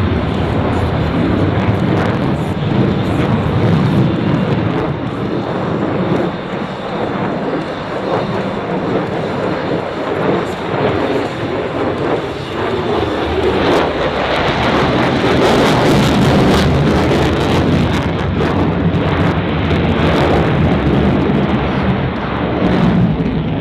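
Continuous loud noise of a jet aircraft's engines, swelling slightly about two thirds of the way through.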